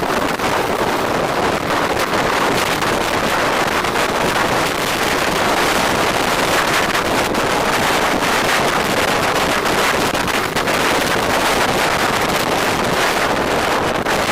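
Steady rushing wind buffeting the microphone on a moving bike, with road and vehicle noise beneath it.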